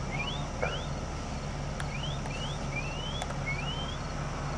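Steady low hum of a vehicle engine idling, with a string of short rising whistled chirps, about two a second, and a couple of faint clicks.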